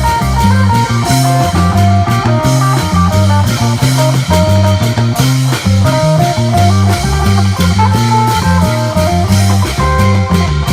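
Instrumental Isan folk-pop: an electric phin (Isan plucked lute) picking a busy melody over a bass guitar line and drums keeping an upbeat, danceable beat.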